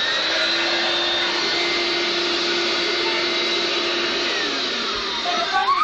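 Household vacuum cleaner switched on and running with a steady whine over a rushing noise; its tone shifts a little about four seconds in.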